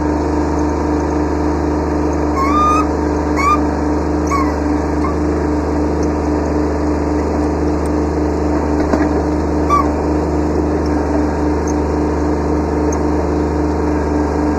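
Kubota B7100 subcompact tractor's three-cylinder diesel engine running at a steady speed. A few short rising squeaks come about two to four seconds in and once more near ten seconds.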